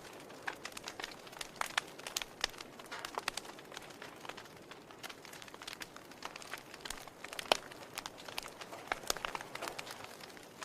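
Wood fire in a fireplace crackling: irregular sharp pops and snaps over a soft steady hiss of burning, with one louder pop about seven and a half seconds in.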